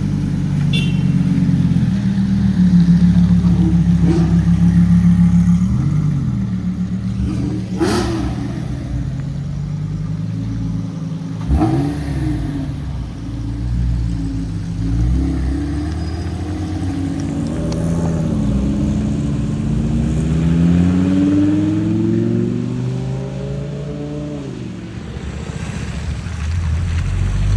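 Car engines running and revving, the pitch repeatedly rising and falling as the cars accelerate. Two sharp cracks stand out partway through.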